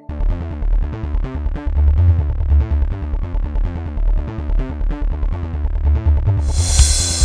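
Electronic dance music with a driving synthesizer bass and a fast sequenced synth pattern over a drum-machine beat. It comes in abruptly at full level, and a bright rushing noise swell rises in near the end.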